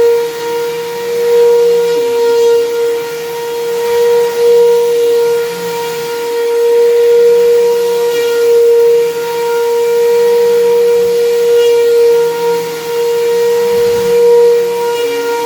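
Vacuum cleaner running on carpet: a steady high motor whine with a hiss of air, rising and falling in loudness every couple of seconds.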